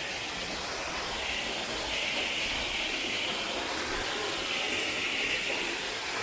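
Waterfall: a steady rush of falling water that swells and eases slightly.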